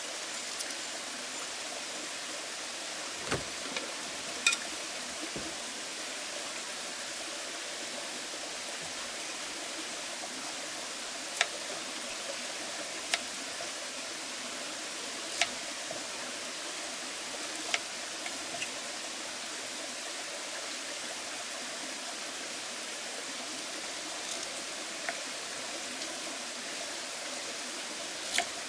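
Cut potatoes frying in a pan of hot oil: a steady sizzle, with a few sharp ticks and taps scattered through it.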